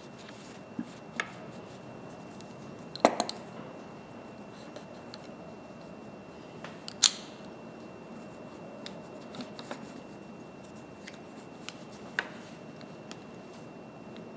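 Scattered sharp metallic clicks and clinks of groove-joint pliers being handled and set down on a workbench, the loudest about three and seven seconds in.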